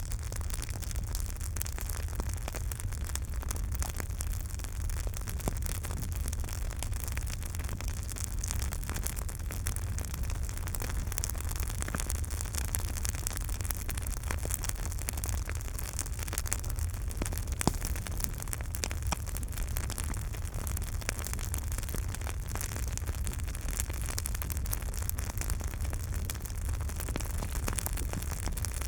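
Campfire burning, with dense crackling and popping of the wood over a steady low rumble and hiss; one louder pop a little past the middle.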